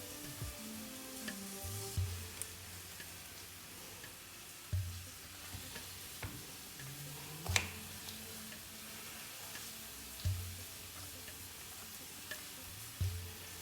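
Faint sizzling of food frying in a pan, with a few utensil clicks, the sharpest about halfway through, under soft background music.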